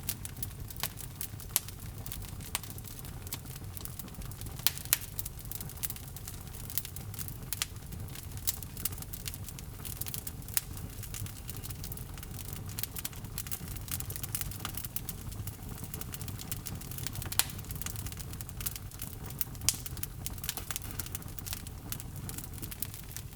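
Log fire in a fireplace crackling, with a steady low rumble of the flames and irregular sharp pops and snaps from the burning wood, a few of them much louder than the rest.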